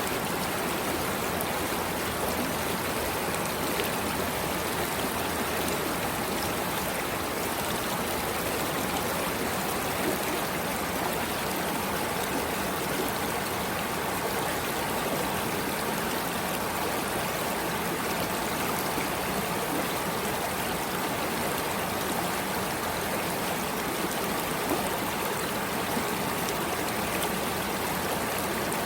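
Flowing stream water running steadily, an even, unchanging rush of water.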